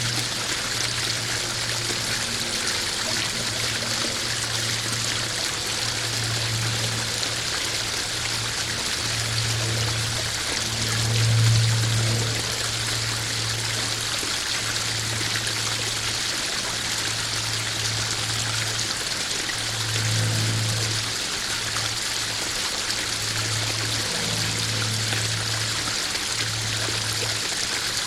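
Small garden waterfall splashing steadily into a koi pond, an even rushing and trickling of water. Under it a low hum comes and goes every second or two, swelling loudest about eleven seconds in.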